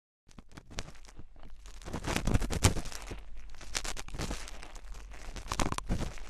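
Close-miked ASMR scratching and rustling: a dense stream of small crackly clicks and scrapes that starts a moment in and grows louder.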